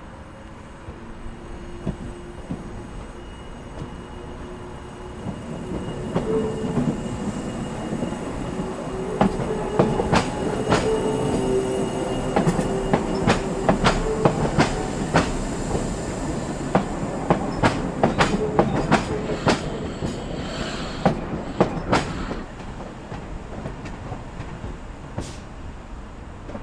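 Hydrogen fuel-cell conversion of a Class 314 electric multiple unit passing slowly: its running hum builds as it approaches, then a long run of sharp wheel clicks over rail joints and points as it goes by, before it fades away.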